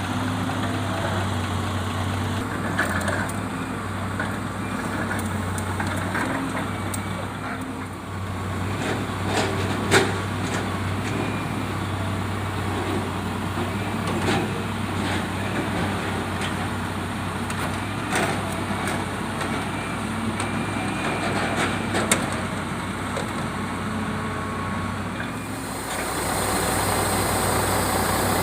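Heavy diesel engine running steadily, with scattered knocks and clunks of rubberwood logs being loaded; the sharpest knocks come about ten seconds in and again about twenty-two seconds in.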